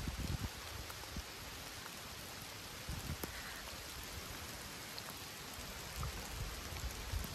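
Steady rain falling, an even hiss, with a few brief low rumbles at the start and again near the end.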